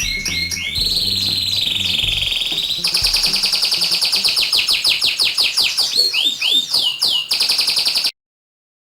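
Recorded songbird chatter played as a bird lure: rapid trills and chirps with short whistled glides, over a low hum for the first few seconds. It cuts off abruptly near the end.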